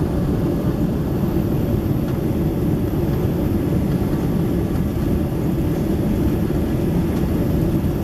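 Steady cabin noise inside a Boeing 767-300ER airliner: an even, low rushing drone of airflow and engines.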